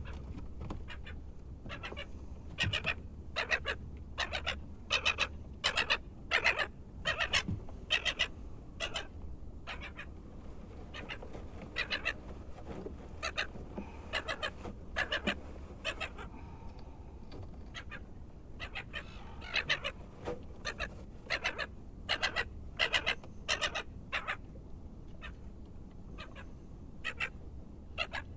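Gulls calling: runs of short, sharp, repeated calls, a few a second, coming in bursts with pauses between.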